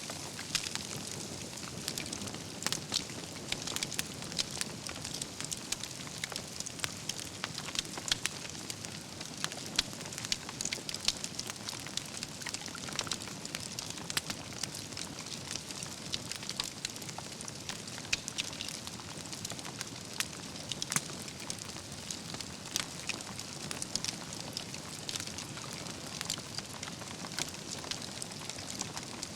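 Wood campfire burning with constant irregular crackles and sharp pops of burning logs over a steady low hiss of flame.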